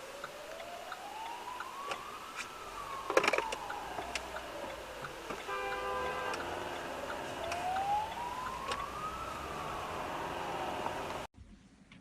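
Emergency vehicle siren wailing, rising and falling slowly in pitch twice. A brief horn-like tone sounds about halfway through, with a sharp knock a little before it. The sound cuts off abruptly near the end.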